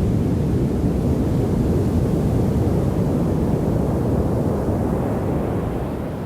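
Pacific surf at high tide: a deep, steady rumble of breaking waves that slowly fades near the end.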